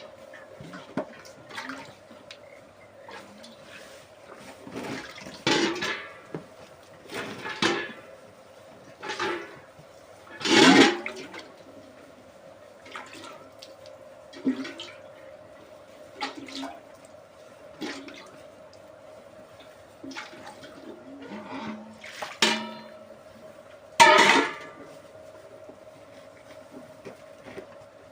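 Cow being milked into a pail: irregular spurts of milk hissing into the container every second or two, a few louder than the rest, over a faint steady hum.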